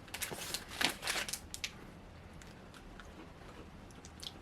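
Crackling and rustling from handling a wrapped cookie snack, a quick run of sharp crackles in the first second and a half, then sparser and fainter.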